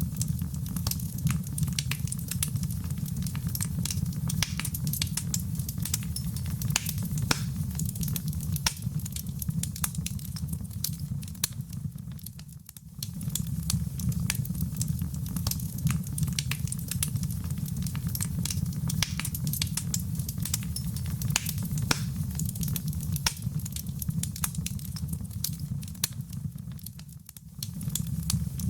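Wood fire burning in a fireplace: a steady low rumble of flames with frequent sharp pops and crackles. The sound dips briefly twice, about halfway through and near the end.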